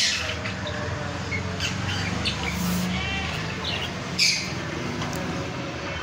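Small aviary birds chirping: short, scattered calls, the loudest a little past four seconds in, over a steady low hum.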